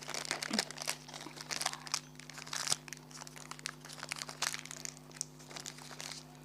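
Milk candy wrapper crinkling and rustling as it is handled and opened, a dense run of irregular crackles.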